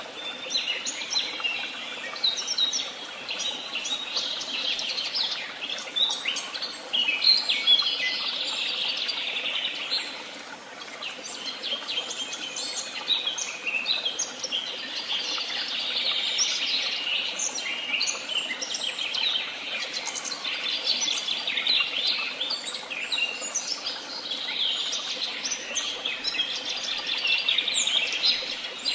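Several songbirds singing and chirping at once: a dense, overlapping chorus of short high chirps and trills, with a brief lull about ten seconds in.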